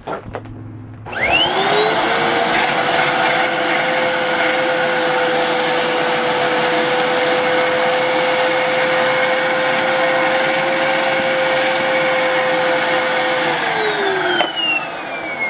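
Hoover WindTunnel High Performance Pet upright vacuum cleaner switched on about a second in, its motor whine rising quickly to a steady pitch and running for about twelve seconds, then switched off, the whine falling as the motor winds down. It runs with the gap at the hose's suction joint now closed, giving a lot better suction.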